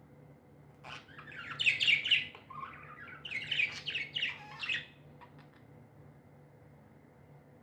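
Pet budgerigars chirping in two quick bursts of chatter, the first about a second in and the second a little after three seconds, followed by a few faint clicks.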